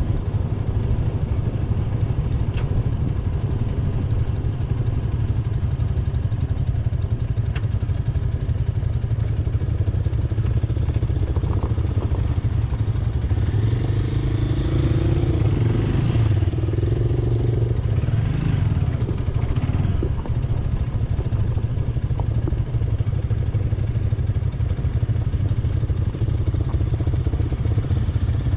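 AKT GP 180 motorcycle engine running steadily under way, a continuous low drone. For a few seconds about halfway through, another pitched sound rises over it.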